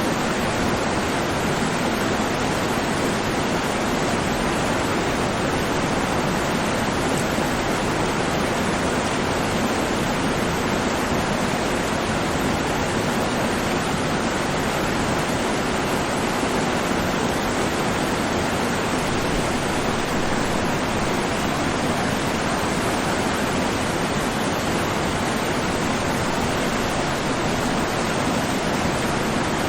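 A steady, unvarying rushing noise that cuts in abruptly from silence just before the start.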